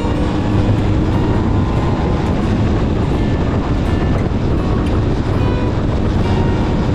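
1972 Yamaha DT-1F 250's single-cylinder two-stroke engine running steadily.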